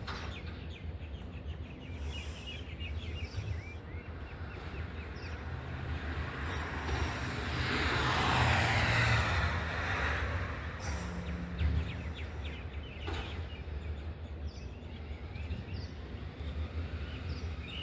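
Birds chirping over a steady low engine rumble, while a vehicle goes by, loudest about eight to nine seconds in and fading after.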